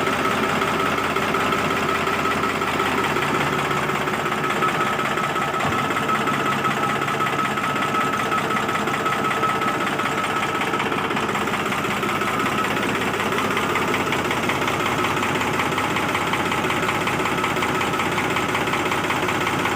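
New Holland tractor's diesel engine running steadily with a fast, even knock.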